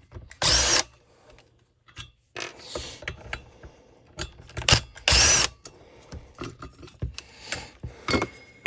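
Small trimmer parts and tools handled on a workbench: scattered clicks and knocks, with two louder half-second rasping bursts about four seconds apart.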